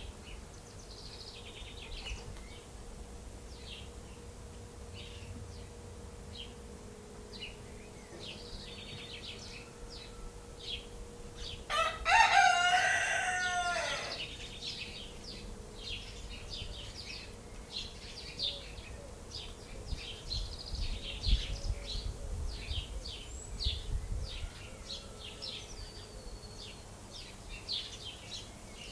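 A rooster crows once, a loud call of about two seconds near the middle, over a steady scatter of short, high chirps from small birds.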